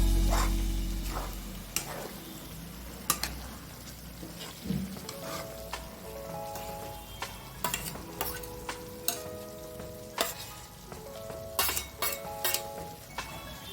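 Chicken sizzling as it fries in a kadai (Indian wok) while being stirred, with a spoon knocking and clinking against the pan now and then. A background melody of held notes plays along.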